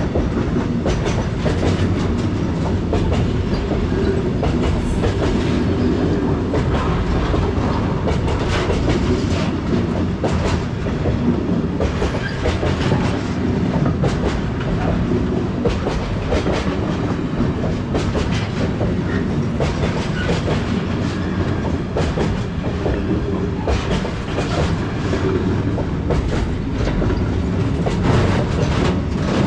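Freight train rolling past, its wagon wheels clicking over the rail joints in a continuous stream of clacks over a steady rumble.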